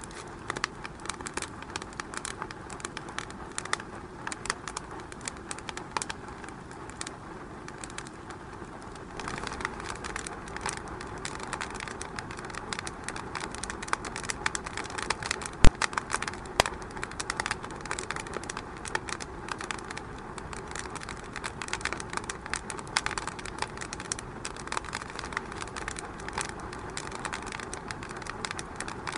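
Wood fire crackling in a fireplace: many small irregular snaps over a steady hiss, with one loud sharp pop a little past halfway.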